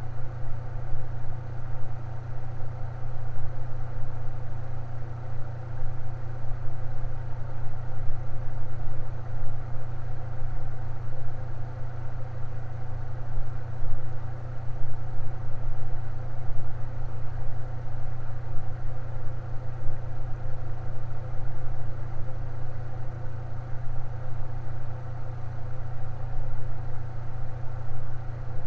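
Electric fan running steadily: an even, low hum with fainter steady tones above it.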